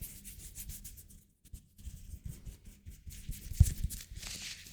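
Hands rubbing and brushing close to the microphone, with a short pause a little over a second in and a soft low bump on the microphone about three and a half seconds in.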